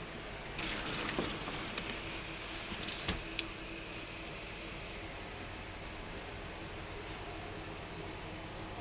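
Insects chirring: a steady, high-pitched chorus that starts suddenly about half a second in, with a few faint knocks over it.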